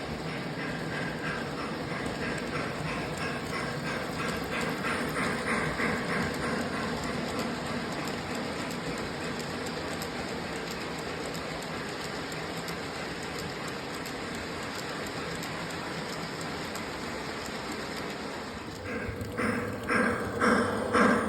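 Model train running on the layout track, a steady rolling hum with faint rhythmic clicking. Near the end a run of louder rhythmic pulses comes in, about two a second.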